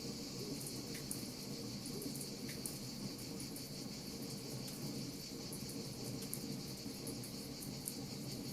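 Wood fire crackling with scattered small sharp pops, over a steady high chirring of insects and a low steady rush.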